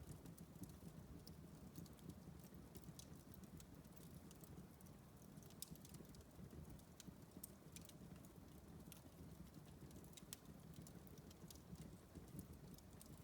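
Wood fire in a fireplace crackling faintly: small, irregular pops and snaps over a low steady hum.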